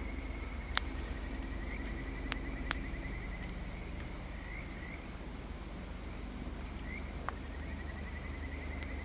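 Bonfire burning with a low steady rumble and a few sharp crackling pops, under a steady high-pitched trill.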